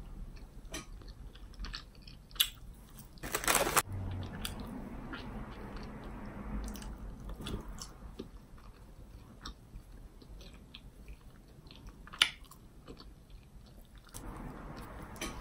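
Close-up chewing and biting of a chewy red candy strip: faint scattered wet mouth clicks, with one louder half-second burst about three seconds in and a sharp click about twelve seconds in.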